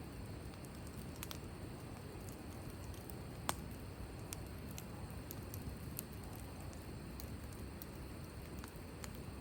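Wood fire crackling, with scattered sharp pops over a soft steady hiss; the loudest pop comes about three and a half seconds in.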